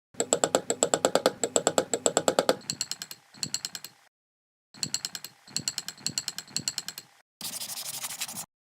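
Wood-carving tool work: bursts of rapid, evenly spaced clicking strokes, about nine a second with a ringing metallic edge, broken by abrupt gaps, then a short burst of scraping near the end.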